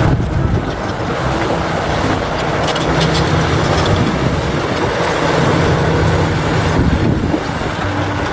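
Bulldozer engine running steadily with a low, even drone; it starts abruptly.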